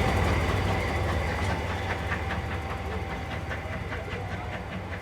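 Train moving away, fading steadily: a run of regular wheel clicks, about four a second, over a fading steady squeal.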